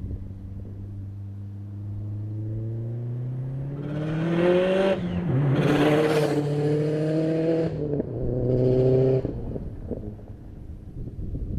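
Subaru turbocharged flat-four running through an aftermarket exhaust, accelerating hard with the revs climbing. There is a short break and drop in pitch about five seconds in and again near eight seconds, like gear changes. The exhaust note falls away just after nine seconds as the throttle is lifted.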